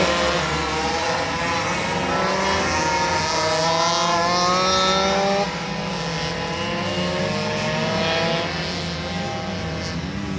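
Several racing minibike engines at full throttle, accelerating together, their overlapping pitches rising as they pull through the gears; the sound drops somewhat about five and a half seconds in.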